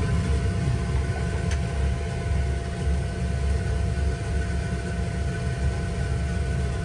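A steady low mechanical rumble with a faint, steady high whine held over it, as from a machine running.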